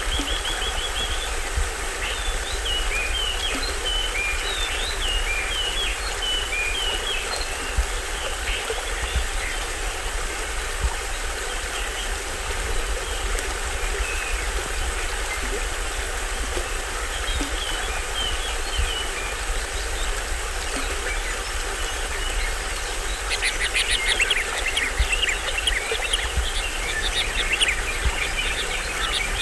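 Small stream waterfall running steadily, with forest birds chirping over it: a string of short calls in the first several seconds, a few more about halfway through, and a dense run of rapid chirps near the end.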